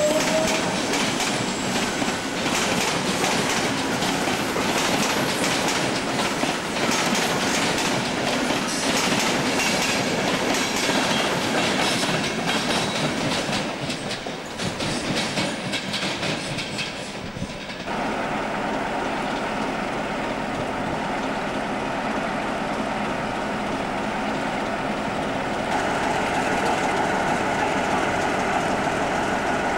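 A locomotive-hauled passenger train runs slowly over the station pointwork, its wheels clattering over the rail joints and crossings. After about 18 seconds the sound cuts to a Class 47 diesel locomotive standing with its Sulzer twelve-cylinder engine running steadily.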